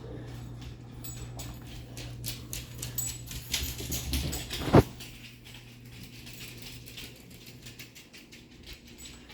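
A puppy moving about, making a scatter of small taps and clicks that grow busier for the first few seconds, with one sharp knock about halfway through.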